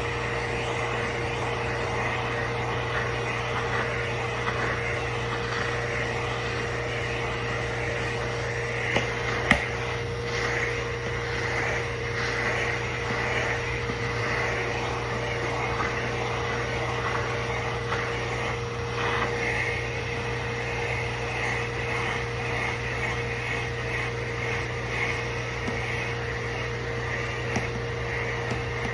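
Dog grooming vacuum running steadily with its electric clipper attachment, sucking the clipped fur into the unit. Two brief knocks about nine seconds in.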